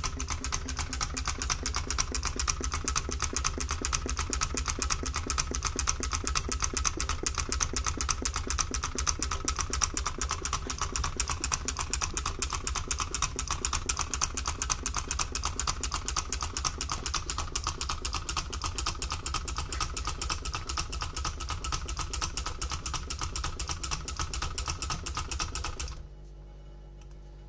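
Homemade Stirling engine with a sponge displacer running, its mechanism making a fast, even clicking. The clicking cuts off sharply near the end, leaving a faint hum.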